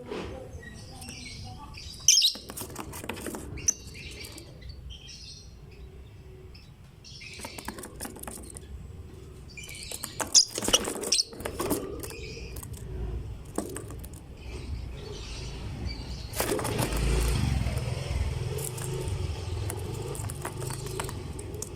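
Lovebird chirping in short, shrill calls that come in clusters about two, four and eleven seconds in. From about sixteen seconds a steady rushing noise with a low rumble runs underneath.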